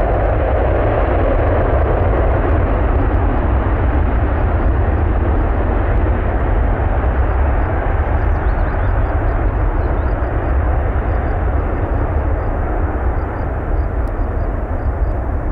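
Jet noise from a Lockheed C-5M Super Galaxy's four turbofan engines: a loud, steady rush of noise over a deep rumble, easing slightly near the end.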